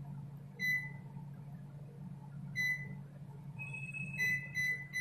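Convection microwave oven's keypad beeping as it is programmed for a 160 °C, 20-minute convection bake. There are short single beeps about a second and two and a half seconds in, then a longer beep and a quick run of beeps near the end, over a steady low hum.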